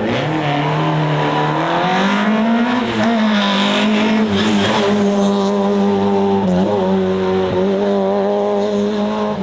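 Hillclimb race car engine at high revs, rising in pitch over the first couple of seconds, dipping briefly about three seconds in, then held steady at high revs with another short dip partway through.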